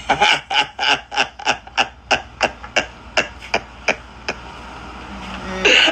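A rapid, even run of sharp hits, about four a second, stopping a little over four seconds in.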